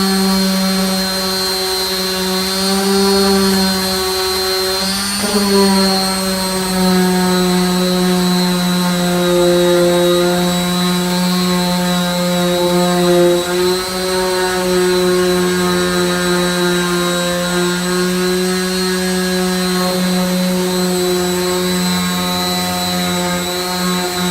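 Electric disc sander running steadily with a constant hum while sanding body filler with a 240-grit disc. Its pitch wavers briefly about five seconds in.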